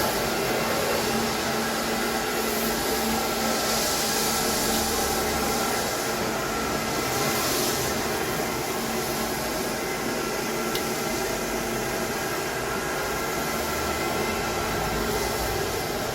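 X7 ride-on wet floor scrubber running, a steady motor whir with a faint steady hum underneath.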